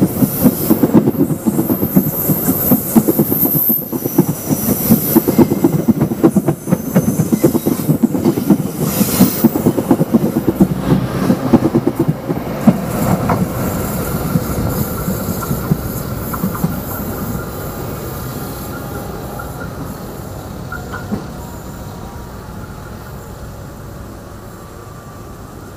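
Passenger train rolling past close by, its steel wheels clattering rapidly over the rail joints, loudest over the first half. After that a thin wheel squeal comes in, and the train fades away gradually.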